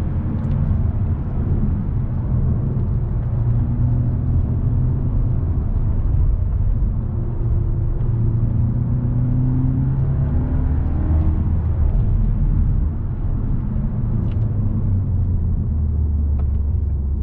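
Mk7 Volkswagen Golf R's turbocharged four-cylinder engine running under way, a steady low drone with road rumble. Midway the engine pitch rises and falls a few times as the revs change.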